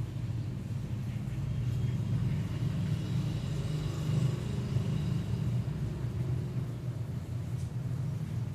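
A steady low rumbling hum, with faint higher tones in the middle.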